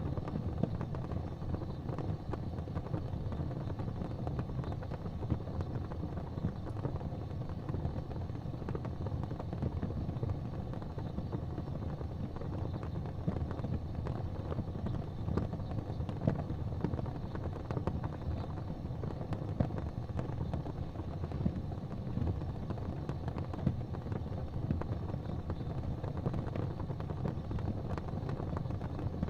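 Fireplace fire burning with a steady low rumble and scattered crackles and pops.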